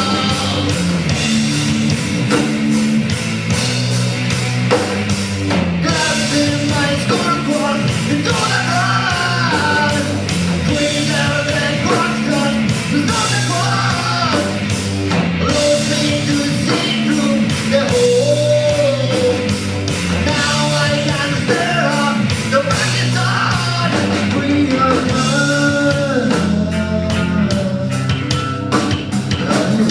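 A rock band playing live and loud: electric guitars and bass over steady drumming, with a bending melodic line on top.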